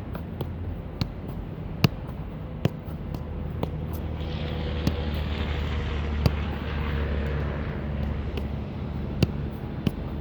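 Steady low rumble of idling truck engines, swelling with a passing vehicle about four to eight seconds in, with scattered sharp clicks throughout.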